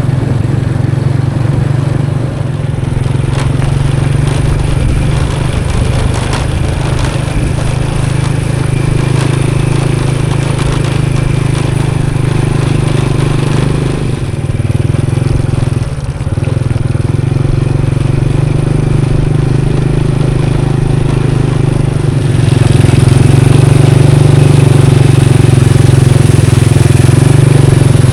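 Small motorcycle engine running steadily under way, getting louder about 22 seconds in.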